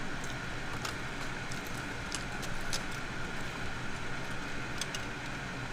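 Steady background rumble and hiss of running machinery, like vehicles or engines, with a low hum and faint scattered small clicks.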